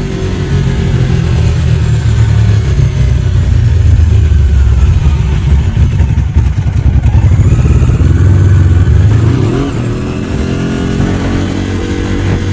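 Ducati 749's L-twin engine running under way, its pitch rising and falling as the revs change, then easing off about ten seconds in.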